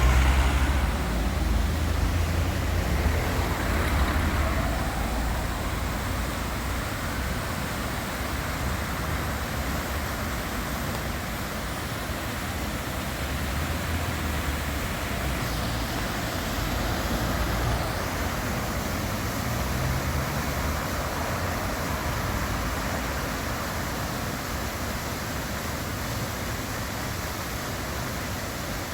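City street traffic: a motor vehicle passes close by at the start with a deep rumble that fades over a few seconds, then a steady hum of traffic, with another vehicle passing about halfway through.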